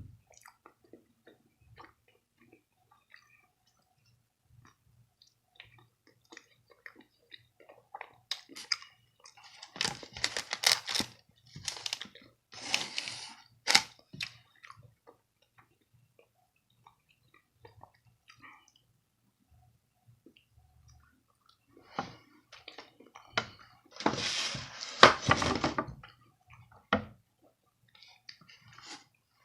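A person eating: scattered soft chewing and mouth clicks, with two louder, noisy spells of a few seconds each, the first about a third of the way in and the second near the end.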